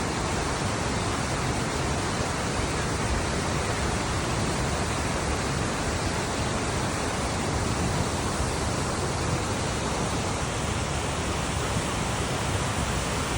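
Steady, loud rush of falling water from a waterfall, an even roar without change.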